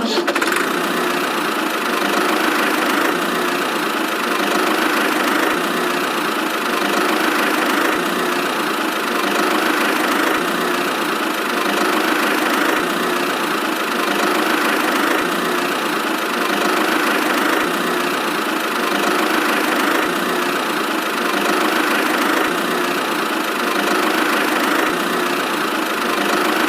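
Tractor engine running steadily, an even buzzy drone with little deep bass.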